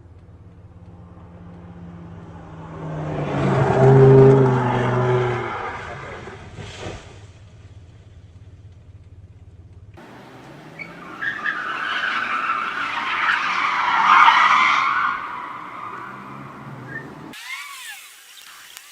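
A car's engine swells loud about four seconds in and fades, with a short knock near seven seconds. Then a second car passage comes in with tyres skidding, loudest around fourteen seconds.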